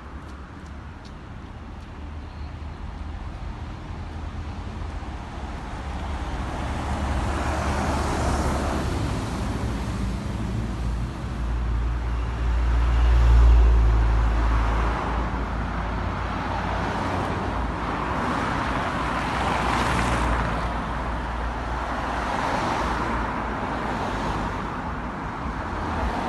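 Road traffic: vehicles passing one after another, each swelling and fading, with a deep rumble that peaks about halfway.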